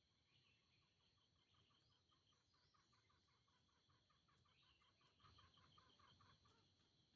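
Green junglefowl clucking: a faint rapid run of short notes, about four or five a second, growing louder before stopping near the end.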